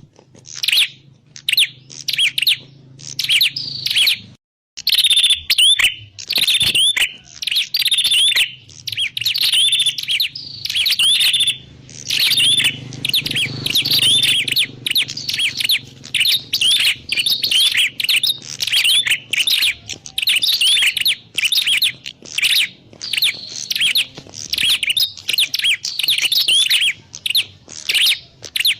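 Prenjak klawu, a small grey prinia, calling in a rapid, nearly continuous series of sharp chirps and trills, with one brief pause about four seconds in. This is the call used as a lure to draw the birds in.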